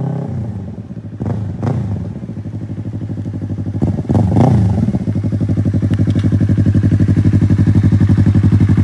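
Yamaha YZF-R3's parallel-twin engine running through an M4 Street Slayer carbon slip-on exhaust. It drops back from higher revs, gets a few quick throttle blips (two close together about a second in, one about four seconds in), then settles into a steady, pulsing idle.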